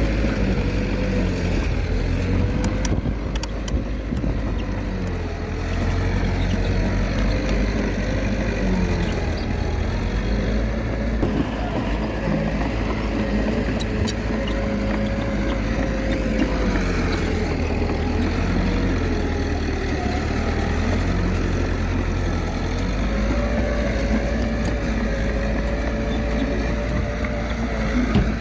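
Komatsu D21A bulldozer's diesel engine running under load as it pushes, its pitch sagging and recovering several times, with a few faint clicks.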